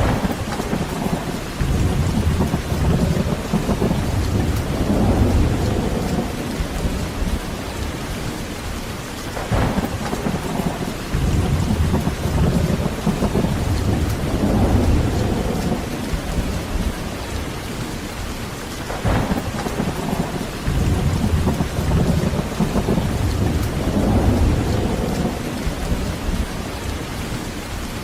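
Steady heavy rain with rolling thunder: three long low rumbles about every nine to ten seconds, each opening with a short crack.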